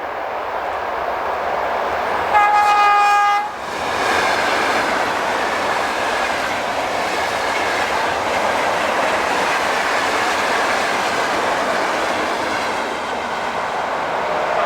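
A passing train sounds its horn once, a single steady high note about a second long, and then runs past close by with continuous wheel-on-rail rolling noise.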